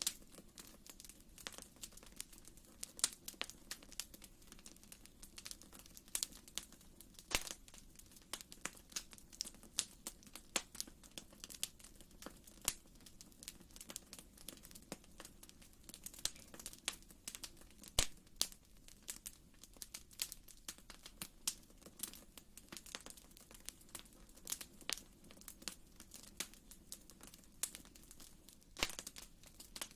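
Wood fire crackling in a fireplace: irregular sharp pops and snaps, a few louder than the rest, over a soft steady low rumble.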